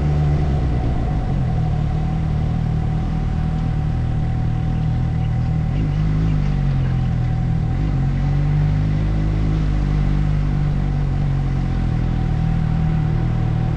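Motorcycle engine running on the move, its pitch rising and falling with the throttle, over steady wind and road noise.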